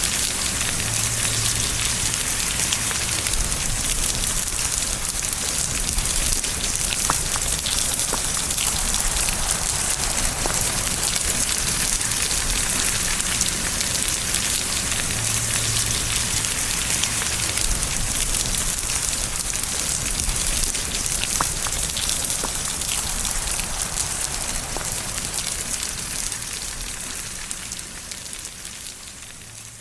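Steady rain falling on surfaces, a dense hiss with scattered drop ticks, fading out gradually over the last few seconds.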